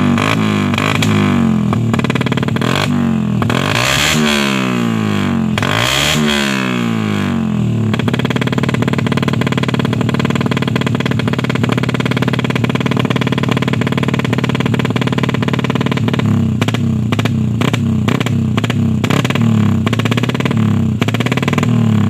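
Yamaha Jupiter MX single-cylinder four-stroke engine running through a Pro Liner aftermarket exhaust. It idles with a pulsing beat, is revved up and back down twice a few seconds in, then holds a steady higher speed for several seconds before dropping back to a pulsing idle.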